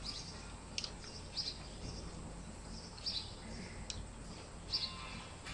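Faint, scattered high chirps from small birds, about half a dozen short calls, over a low steady hum of room noise.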